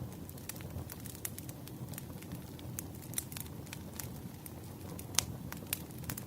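Campfire crackling: a steady low rumble of burning with frequent sharp, irregular pops, the loudest about five seconds in.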